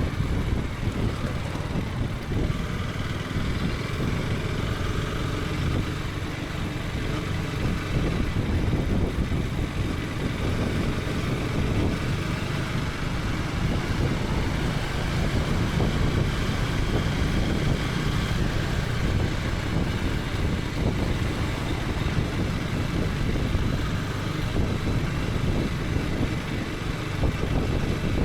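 KTM 250 Adventure's single-cylinder engine running steadily while the motorcycle is ridden, under a dense, even rush of wind and road noise on the helmet camera.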